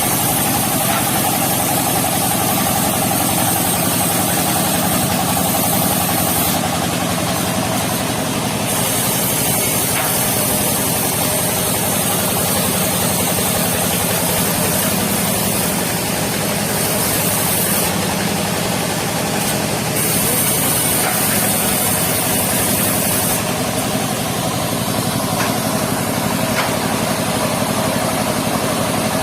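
Mobile circular sawmill running steadily: an even engine drone, with a high hiss that comes and goes several times.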